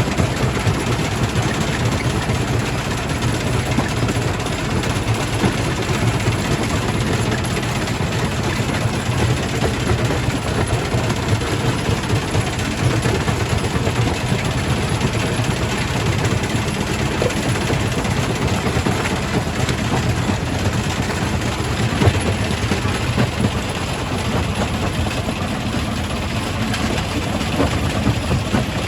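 Quarry primary rock crusher running and crushing stone: a loud, continuous low rumble and grinding, with one sharp knock about 22 seconds in.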